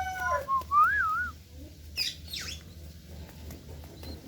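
A rooster's crow trailing off in the first half second, followed by a short wavering whistle and, about two seconds in, a sharp high bird call sliding steeply down in pitch.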